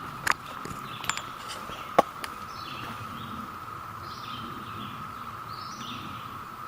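An unexplained steady drone at one even pitch, the strange noise the hiker cannot place, which he says moves overhead, with small birds chirping over it. A sharp click sounds about two seconds in.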